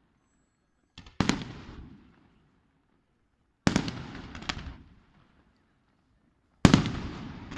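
Fireworks bursting overhead: a string of sharp bangs, each trailing off in a rolling echo. There are three main blasts about two and a half to three seconds apart, with a smaller crack just before the first and a second bang just after the middle one.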